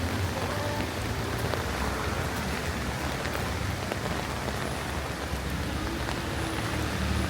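Steady rain falling, a continuous hiss with scattered drop ticks, over a low steady rumble.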